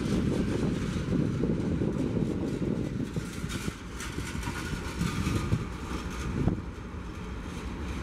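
A train running past: a steady low rumble with a noisy hiss above it.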